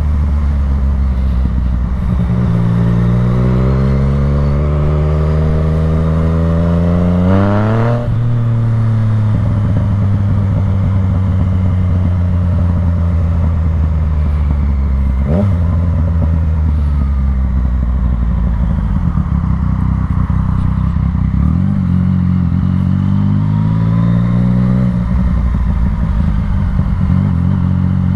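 Motorcycle engine accelerating under load, its pitch climbing for several seconds and dropping at a gear change about eight seconds in. It runs fairly steady, then climbs again and shifts once more near the end.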